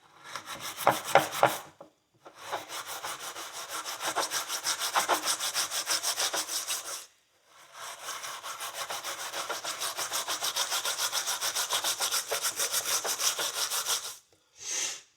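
Steel wool scrubbed rapidly back and forth over a rusty horseshoe, about five strokes a second, scouring the rust off. It comes in three runs with two short pauses.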